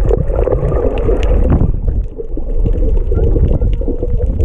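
Underwater sound through a GoPro housing: a steady low rumble with a droning band in the middle of the range and scattered sharp clicks, the unexplained 'mystery sound'.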